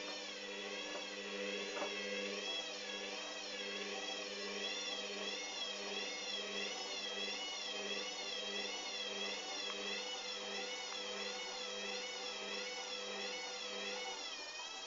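Hoover Dynamic washing machine's motor whining as the drum turns, its pitch wavering up and down about once a second over a low pulsing hum. Near the end the hum stops and the whine shifts.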